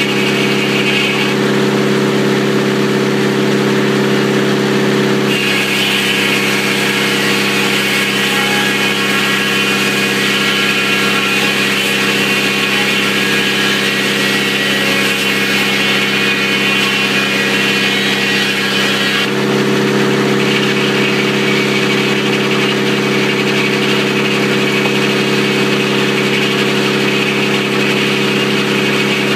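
Sawmill engine running steadily with the saw blade turning. From about five seconds in to about nineteen seconds the engine note changes and a strong hiss rises, as the blade cuts through a telephone pole; then it drops back to the steady running sound.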